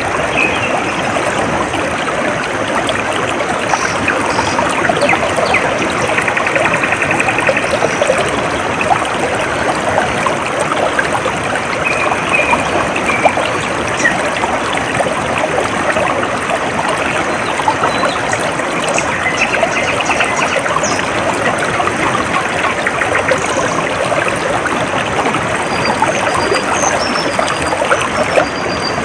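A stream flowing steadily with a continuous trickling rush, with short high bird chirps now and then over it.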